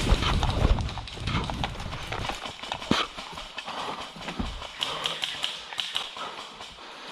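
Footsteps of a player moving through dry leaves and twigs on a forest floor, an uneven run of crunches and snaps with gear rustling.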